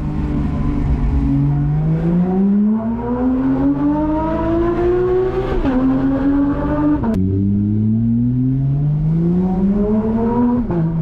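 Porsche 911 GT3's naturally aspirated flat-six accelerating, its revs climbing through the gears. The pitch drops sharply at each upshift, around six and seven seconds in and again near the end.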